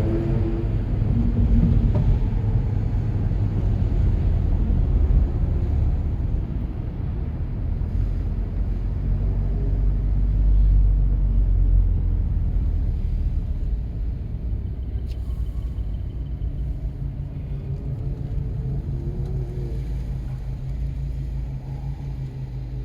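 A 2017 Volkswagen GTI's turbocharged four-cylinder engine running at low revs with a steady low rumble as the car moves slowly. It eases off somewhat past the middle.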